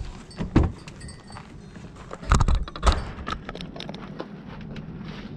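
A few knocks and light clicks from parts being handled during a window visor install, loudest about half a second in and again in a cluster around two and a half to three seconds in.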